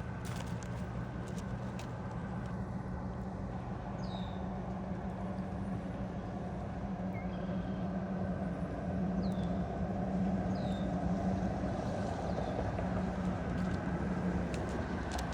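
Steady low motor hum, swelling slightly in the second half, with a few short high falling chirps from a bird.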